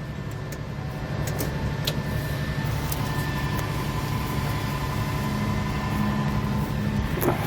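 Heavy construction machine's diesel engine, just started, idling steadily, with a faint steady whine joining in for a few seconds in the middle.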